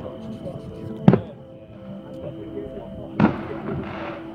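Distant aerial firework shells bursting: a sharp boom about a second in and another about three seconds in, the second trailed by a short crackle. Music plays underneath.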